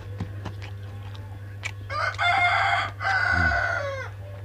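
A rooster crowing once, starting about two seconds in: one long two-part crow lasting about two seconds that trails off at the end. Faint scattered clicks and a steady low hum lie underneath.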